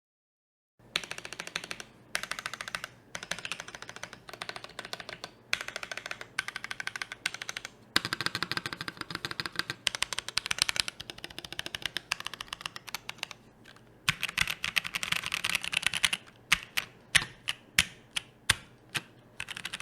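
Typing on a finished CannonKeys Devastating TKL mechanical keyboard with Boba switches on an FR4 plate and GMK keycaps. Fast runs of keystrokes start about a second in and come in bursts broken by short pauses; near the end they give way to single, separate key strikes, about two or three a second.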